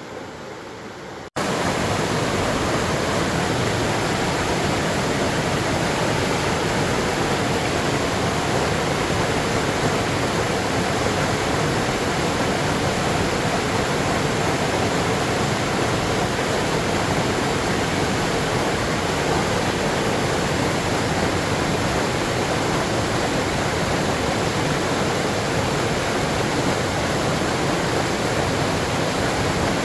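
Steady, even rushing of a waterfall. About a second in it cuts in abruptly and louder, replacing a quieter hiss.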